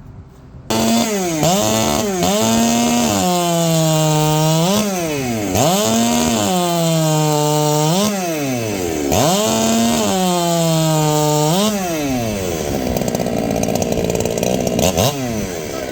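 Husqvarna 395 two-stroke chainsaw running a 33 RS chain, starting suddenly about a second in at high revs. The engine pulls down under load through three cuts, screaming back up between them, then drops toward idle near the end.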